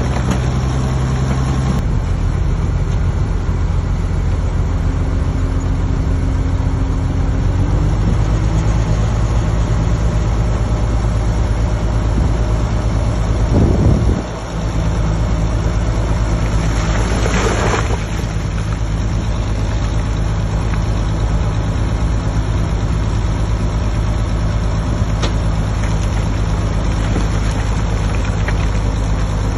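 Heavy diesel engine of earthmoving machinery running steadily. The engine note dips briefly about 14 seconds in, and a short hiss comes about 17 seconds in.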